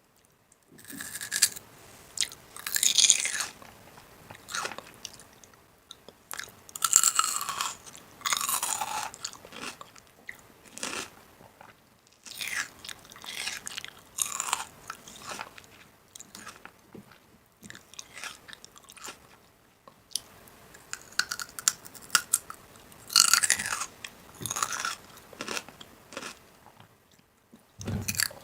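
A person biting into and chewing crunchy food close to the microphone, in irregular bursts of loud crunching with quieter pauses between.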